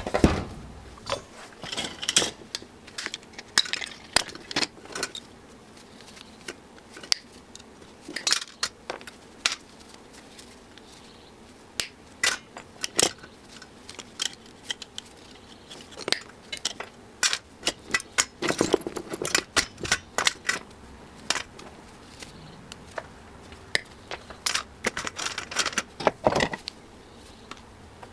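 Irregular sharp clinks and clatters of small metal scrap pieces being pulled apart, handled and set down, some in quick clusters. This is copper and steel being stripped out of a power converter.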